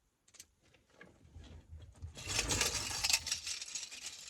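Metal keychain and charms clinking and jingling as a charm is worked off the key ring, soft clicks at first, then a dense run of jingling from about two seconds in, with handling rumble under it.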